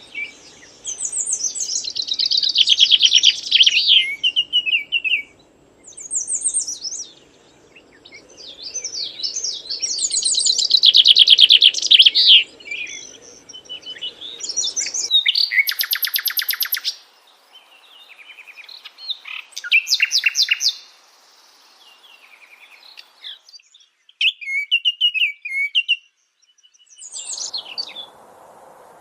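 Birds singing and chirping in phrases of a few seconds each with short pauses between, one of them a fast buzzy trill about halfway through.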